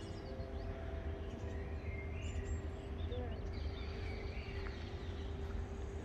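Faint bird calls, a few short chirps, over a steady low rumble of outdoor background noise.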